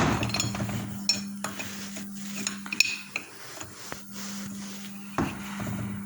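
Small metal fittings and tools clinking and clicking against a diesel fuel injection pump while a plug is fitted, over a steady low hum.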